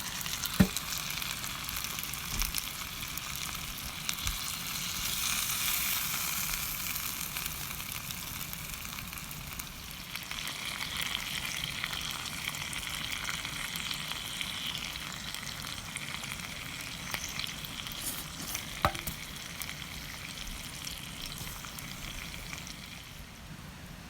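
Food sizzling and frying in a skillet, a steady hiss with fine crackle. Two sharp knocks stand out, one near the start and one near the end.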